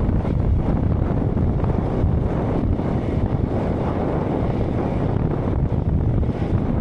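Wind buffeting the microphone while riding a road bike: a steady, heavy rush of noise strongest in the low end.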